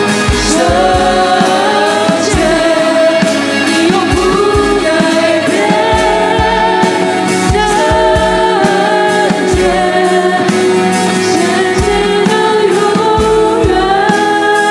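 Christian worship music: sung vocals in a choir-like blend over a band accompaniment, with a steady bass drum beat.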